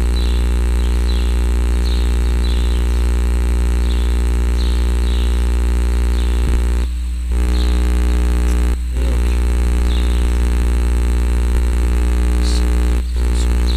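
A loud, steady mechanical drone with many pitches, like a running engine or motor, with faint high chirps repeating about every half second and three brief dips in level.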